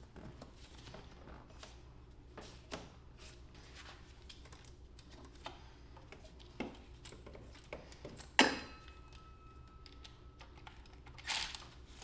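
Tools and metal parts being handled during engine reassembly: scattered light clicks and knocks, a loud metallic clank about eight seconds in that rings briefly, and a short clatter near the end.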